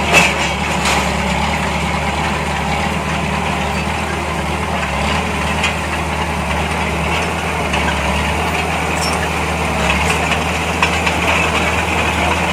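Heavy diesel engine of an earthmoving machine running steadily at an even low pitch. A sharp knock comes right at the start, with a few fainter knocks later.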